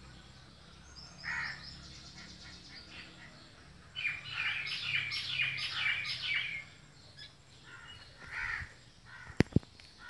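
Birds calling: a short call about a second in, then a fast run of harsh, repeated notes for a couple of seconds in the middle, and another call near the end. Two sharp clicks come just before the end.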